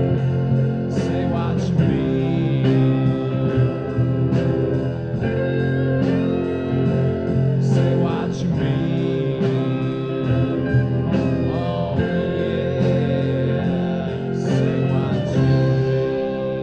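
Band playing a slow blues-style song on guitars, with plucked chords and notes that slide in pitch.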